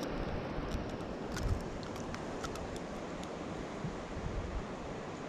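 Steady rushing of river water, with a few faint clicks in the first few seconds.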